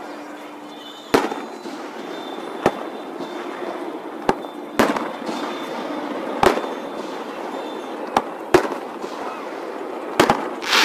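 Aerial fireworks bursting, about ten sharp bangs at irregular intervals, with a pair close together near the end. The audio is sped up, which makes the bangs come faster and sound higher than they would at normal speed.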